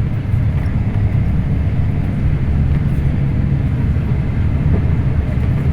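Scania K340IB bus's diesel engine running steadily under way, a continuous low drone heard from on board.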